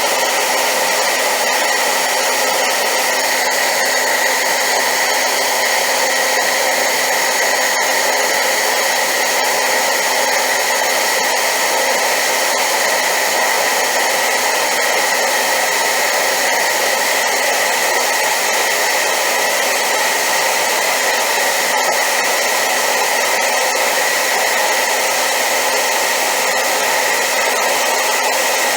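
Hair dryer running steadily at high power: a loud, even rush of air with a faint steady tone in it, unchanging throughout.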